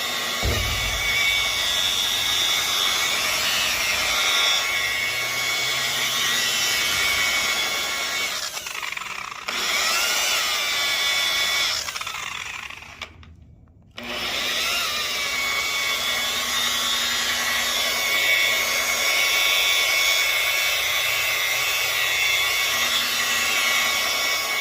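Motor of a carpet-cleaning tool whining steadily as carpeted stairs are worked over. The motor drops off around nine seconds and cuts out for about a second near the middle, each time spinning back up.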